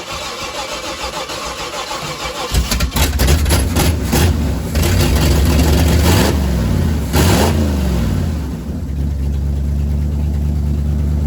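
Small-block Chevy 400 V8 with a new Holley carburetor cranking on the starter, catching about two and a half seconds in, then revved up and down a few times before it settles into a steady idle near the end.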